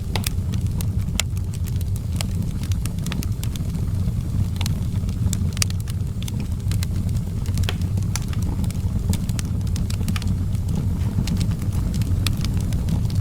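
Outdoor wood fire crackling, with frequent sharp, irregular pops and snaps over a steady low rumble.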